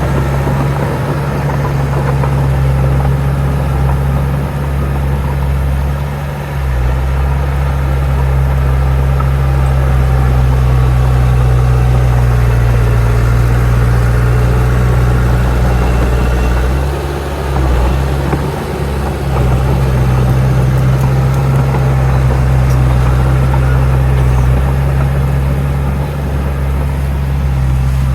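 Heavy earthmoving machine's diesel engine running steadily with a deep, even drone, easing briefly about six seconds in and again a little past the middle.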